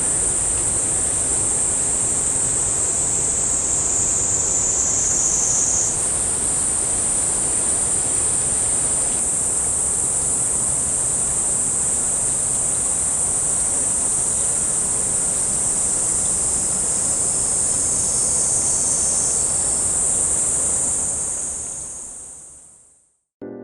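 A steady, high-pitched insect chorus over a low, even background hiss, with a brief change at about six seconds. It fades out near the end.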